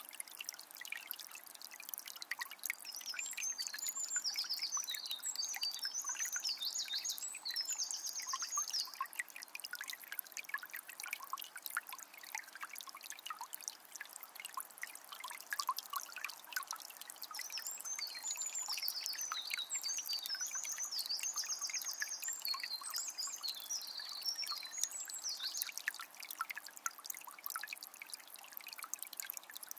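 Forest stream trickling and babbling steadily, a dense patter of small water splashes. A small songbird sings two long phrases of high trills and chirps over it, one a few seconds in and another past the middle.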